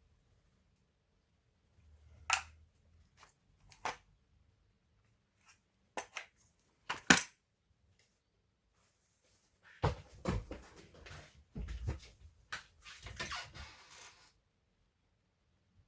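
Sharp clicks and knocks of laptop parts and tools being handled during disassembly, a few single clicks, then several seconds of rustling and knocking from about ten seconds in.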